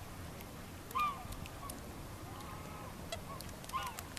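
Geese honking: two louder honks about a second in and near the end, with softer calls between.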